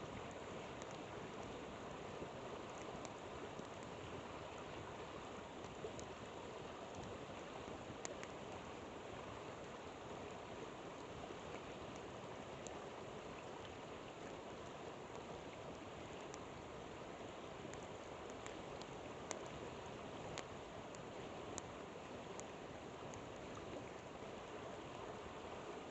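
Steady rushing of a flowing river, with scattered faint pops and crackles from a campfire.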